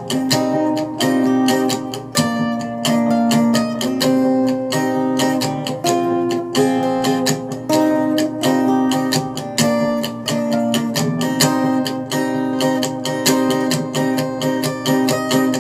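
Acoustic guitar strumming chords in a steady rhythm, an instrumental accompaniment track with no vocals.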